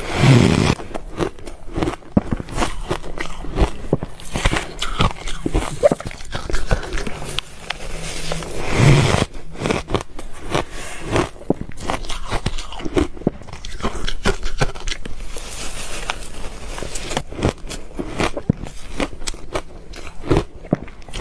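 Ice being bitten and chewed, a rapid, irregular run of crunching and cracking. Two louder bites come at the start and about nine seconds in.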